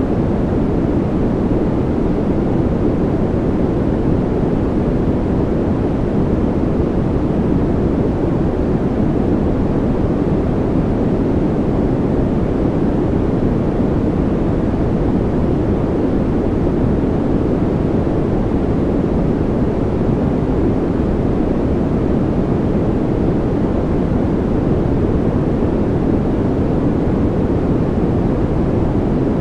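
Steady, unbroken noise played for baby sleep, deep and dull rather than hissy, with most of its energy low and little treble.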